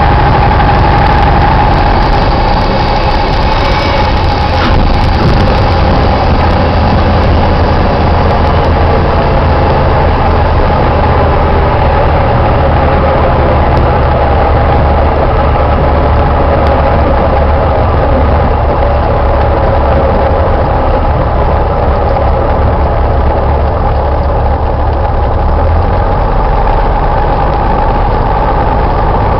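Cessna 172's piston engine and propeller running steadily, heard loud from inside the cabin. The deep low note eases a little near the end.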